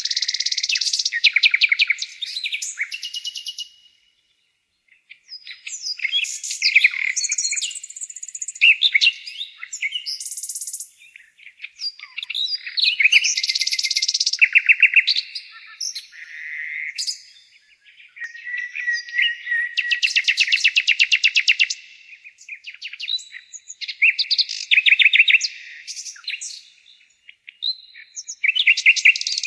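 A nightingale singing: about six loud song phrases, each a run of rapid repeated notes and trills, separated by short pauses.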